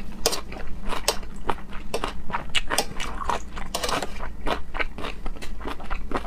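Close-miked eating: a person biting and chewing, with a quick, irregular run of crisp, wet crunches and smacks, several a second.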